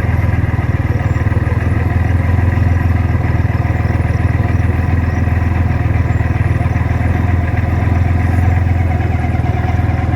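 Corvette V8 engine running steadily, a continuous low rumble that neither revs up nor dies away.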